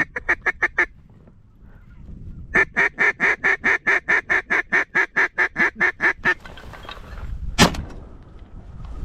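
Mallard-style quacking: a quick run of about six quacks, then after a pause a long, even string of about twenty loud quacks at about five a second. A single sharp knock follows near the end.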